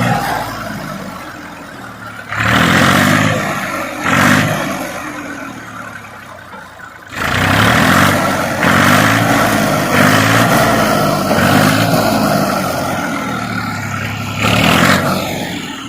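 Tractor engine revved in repeated surges, its pitch rising and falling with each burst, with a long spell of revving through the middle.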